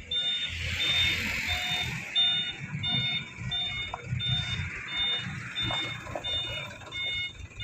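Truck reversing alarm beeping steadily, about one and a half beeps a second, over the low rumble of the diesel engine of a Mitsubishi Canter HDX dump truck loaded with split stone. A hissing rush rises about half a second in and fades over the next two seconds.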